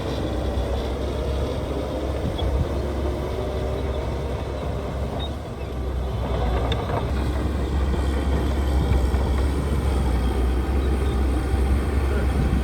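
Heavy diesel construction machinery running with a steady, deep engine drone. The sound dips briefly about five seconds in, then comes back a little louder.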